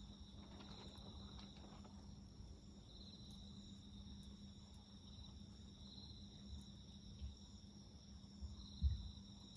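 Crickets calling in short repeated trills, about one every one and a half to two seconds, over a steady high insect drone. A few faint clicks from the wood fire and a low thump near the end.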